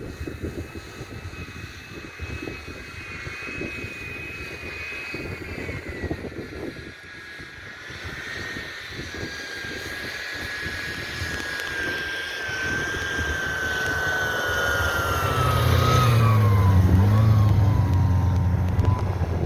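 Taiga snowmobile running at full throttle, its engine and drive making a steady whine that slides slowly lower in pitch, with a heavy low drone coming in and getting louder in the last few seconds. It is fitted with a DD muffler and resonator, so what is heard is mostly the engine and the machine rather than the exhaust. Wind rumbles on the microphone early on.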